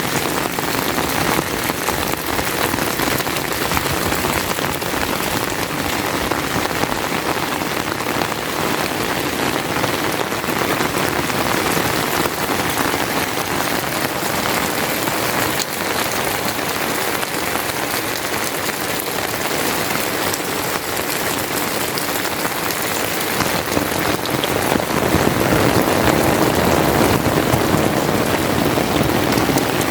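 Steady rain falling, a dense even patter that grows a little louder near the end.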